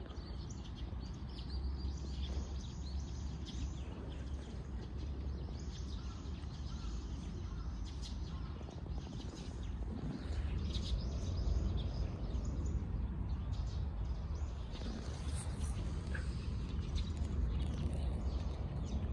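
Small birds chirping now and then, short high notes scattered throughout, over a steady low rumble.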